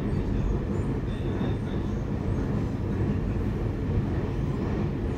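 Commuter electric train running on the line, heard from inside the passenger car: a steady low rumble of wheels and running gear.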